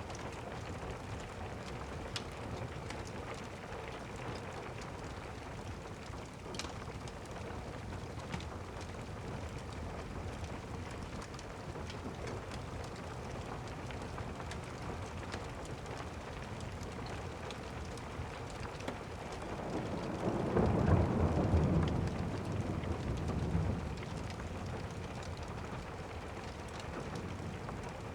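Steady rain with a few sharp crackles, and a long roll of thunder that swells about two-thirds of the way through, rumbles for several seconds and fades.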